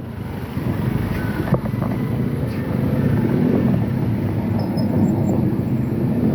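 Road traffic: motor vehicle engines running close by, a steady low rumble.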